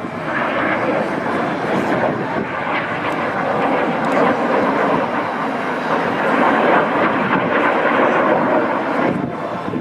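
Jet noise from a formation of Northrop F-5E Tiger II fighters flying past, each powered by two General Electric J85 turbojets: a loud, steady rushing sound that builds through the middle and eases near the end.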